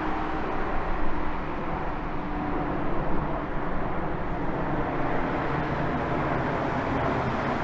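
Boeing 787-9 jet engines running at takeoff power, a steady broad rumble and roar with faint steady tones in it.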